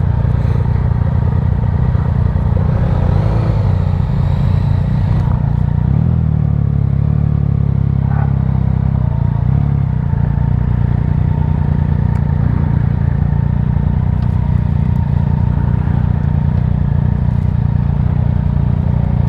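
Motorcycle engine running steadily, its pitch shifting a little about six seconds in.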